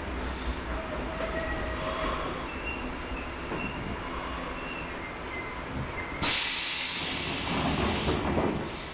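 Seibu 571-series electric multiple unit, a nose-suspended-motor train, rumbling along at low speed with faint high tones. About six seconds in comes a sudden loud hiss of compressed air that fades over the next two seconds.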